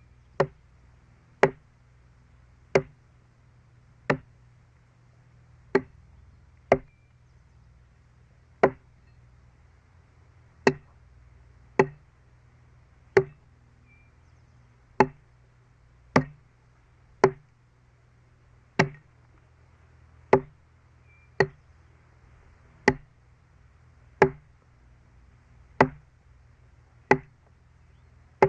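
Sharp single strikes, about twenty of them, at uneven intervals of one to two seconds, over a faint steady low hum.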